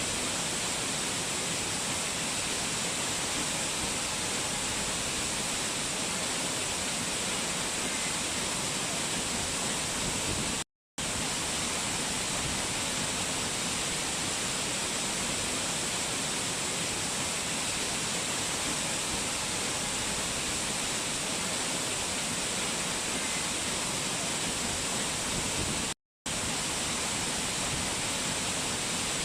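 Rushing mountain water, a steady even hiss with no let-up in strength. It cuts out to silence for a moment twice, about eleven seconds in and again about twenty-six seconds in.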